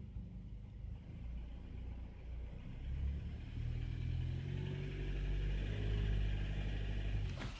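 Nissan car engine running with a knock from inside the engine. The revs rise a little about three seconds in and then hold steady.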